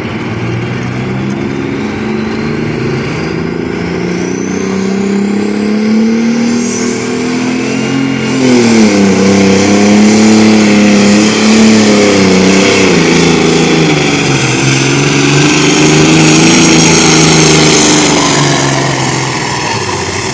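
Farm tractor's diesel engine working at full load on a tractor-pull sled. Its note climbs steadily for the first eight seconds while a high whistle rises with it, then it labours, its pitch sagging and recovering, dipping about two-thirds of the way through, and easing off near the end.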